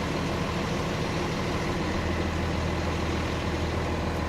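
Vehicle engine idling steadily, an even low hum with no change in speed.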